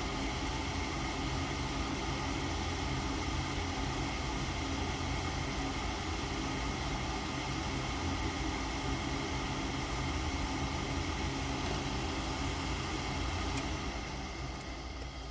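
Gas furnace running through a start attempt: a steady whir and hum from its motor and burner, with a faint click and the sound dropping off near the end. The unit keeps cycling and shutting down on a fault that the technician suspects is the blower motor or a sensor.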